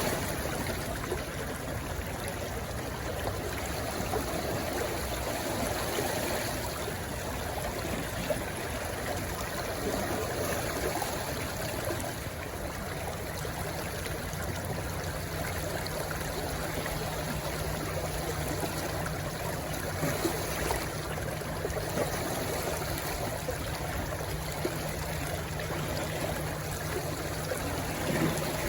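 Rushing stream flowing into the sea: a steady rush of water that swells gently every few seconds. A faint steady low hum joins about halfway through.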